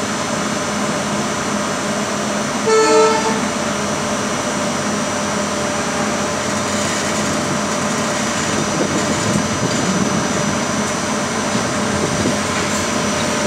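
Indian Railways express coaches rolling past a station platform, a steady rumble. A single short train horn toot sounds about three seconds in.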